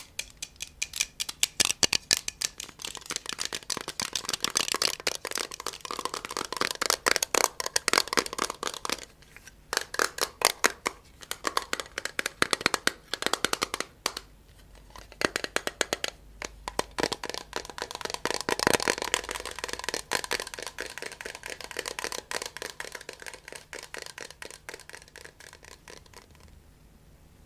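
Close-miked ASMR tapping and scratching: quick runs of taps on a hard surface with scraping in between, pausing twice and getting softer near the end.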